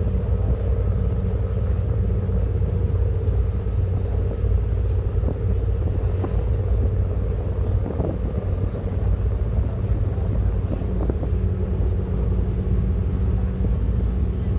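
Marine diesel engines of a ship and its tugboats running with a steady low rumble and hum.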